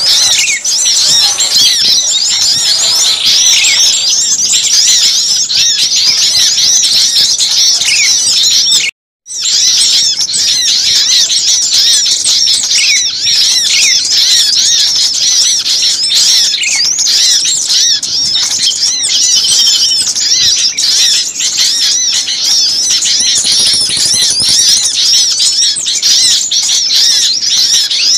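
A noisy chorus of many small birds chirping and calling over one another, rapid high-pitched notes without pause: a bird-lure recording of agitated small birds. The sound cuts out completely for a moment about nine seconds in.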